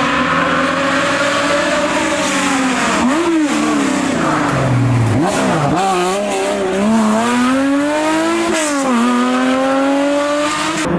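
Historic rally car's engine working hard on a special stage, its pitch climbing and falling repeatedly, with sharp drops about three, five and nine seconds in as the driver shifts or lifts for corners.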